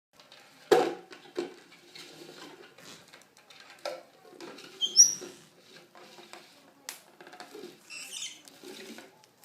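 A parrot scuffling and tapping about, with short high squeaks and chirps. A sharp knock comes about a second in, and a brief shrill squeak near the middle is the loudest sound.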